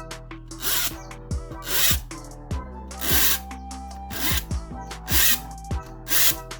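Freshly sharpened hand saw cutting through wood in steady strokes, about one rasping stroke a second, over background music.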